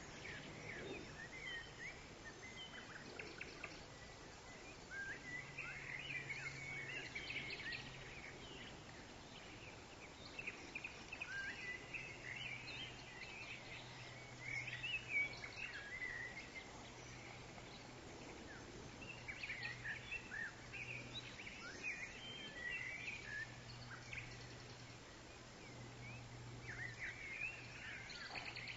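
Forest ambience: clusters of quick bird chirps and twitters every few seconds, over a faint steady low drone.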